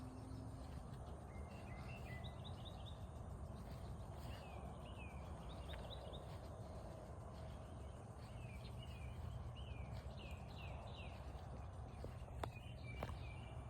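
Small birds chirping in short, quick, downward-sliding notes, repeated on and off, over a steady outdoor background hum, with a couple of faint clicks near the end.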